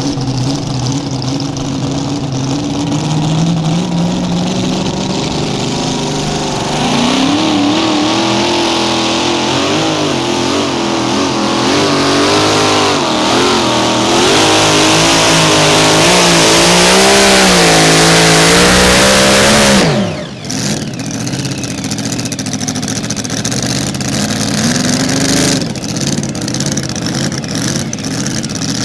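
Mini Rod pulling tractor's engine making a pull: it revs up about seven seconds in and runs hard under load for some thirteen seconds, pitch wavering up and down, then is cut off sharply and falls away. Afterwards it runs low, with one brief rev near the end.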